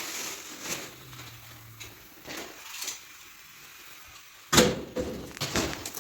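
A sharp knock about two-thirds of the way in, followed by several lighter knocks and rattles, like hard objects being handled and set down. Before it there is only faint hiss.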